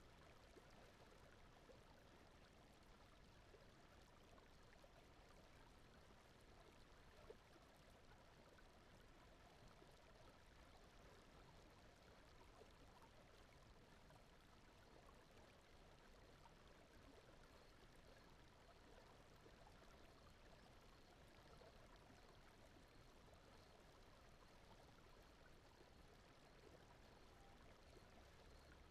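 Near silence: a faint, steady, even rushing noise like softly flowing water, the sleep track's background noise bed.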